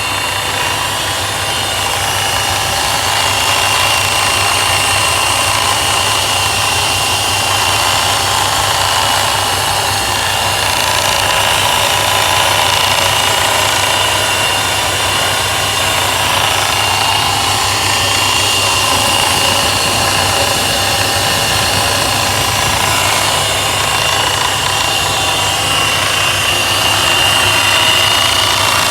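ProCharger P1SC-1 centrifugal supercharger running on an idling engine, giving a steady high whine over the engine's low hum. It is an abnormal noise that the owner fears is a fault.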